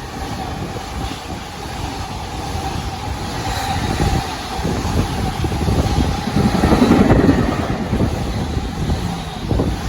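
A passing train rumbling, its noise swelling and easing, with wind buffeting the microphone and a faint steady tone held throughout.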